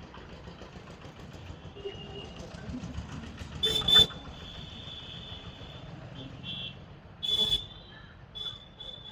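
Plum-headed parakeets calling: thin high whistled notes on and off, with two loud harsh squawks, about four seconds in and again about seven and a half seconds in, over a low steady rumble.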